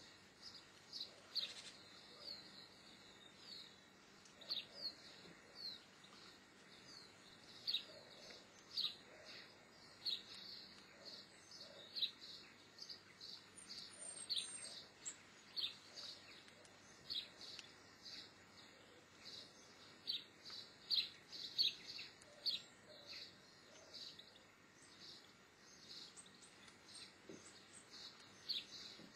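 Short, high, falling chirps repeating about once or twice a second, over a faint steady hiss: small-bird calls.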